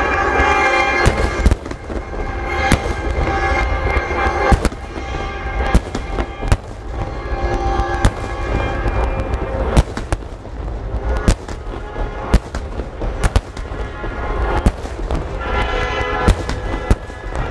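Firework shells bursting in irregular sharp bangs, roughly one a second, over music with sustained tones that swells near the start and again near the end.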